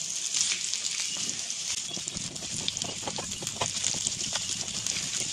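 Whole carrots sizzling and crackling as they fry in hot ghee in a nonstick pan, with the occasional knock of a spatula turning them.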